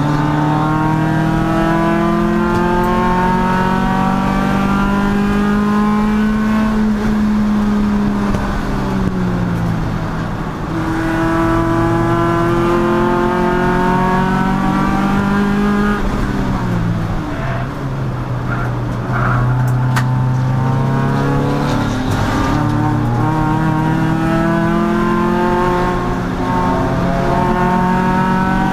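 Endurance race car's engine under hard throttle, its revs climbing steadily. It falls away twice, the second time in quick steps like downshifts under braking, then pulls up again.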